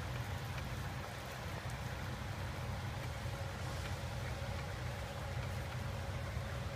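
Steady rain falling, an even hiss, over a steady low rumble.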